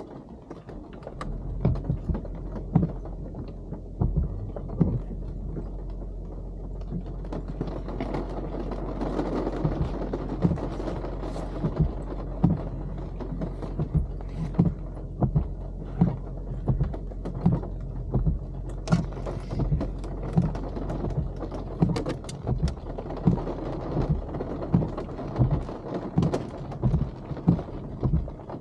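Car interior with the engine idling as a steady low hum and windshield wipers sweeping, a thump about once a second as each stroke ends.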